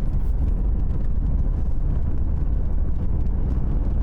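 Steady low rumble of a vehicle driving on the road, with no change in level.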